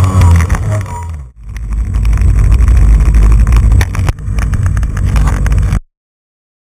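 Jet ski engine running loudly with water and spray noise; it drops away sharply for a moment about a second in, comes back, and the sound cuts off abruptly near the end.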